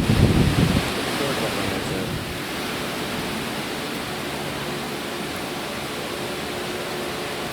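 Hurricane wind buffeting the microphone for the first second, then a steady rushing of storm wind.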